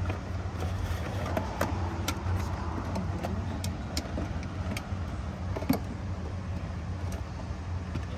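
Steady low machine hum with scattered sharp metallic clicks and clinks, like tools and parts being handled during work on a truck.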